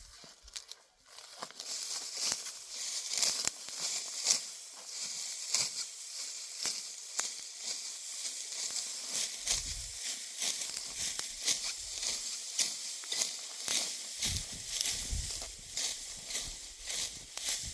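Dry wheat stalks rustling and crackling as they are handled, with many short crisp crackles over a steady hiss and a few dull low thumps.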